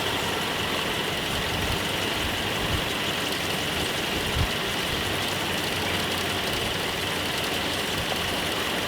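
1986 Nissan 720 ST pickup's Z24 four-cylinder engine idling steadily on its first run after sitting for over ten years, still on old spark plugs with Marvel Mystery Oil in a cylinder; it runs without knocking but needs a tune. Two small thumps come about three and four and a half seconds in.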